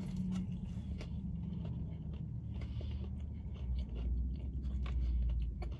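Biting into and chewing a piece of crispy breaded plant-based fried chicken, with many small crunching clicks over a low steady hum.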